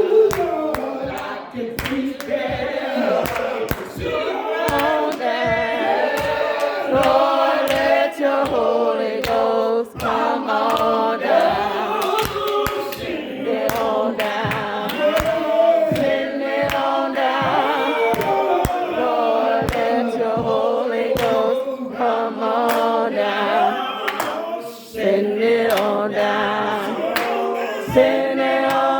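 Church congregation singing together as a choir, many voices holding long notes, over a steady beat of sharp strikes about twice a second.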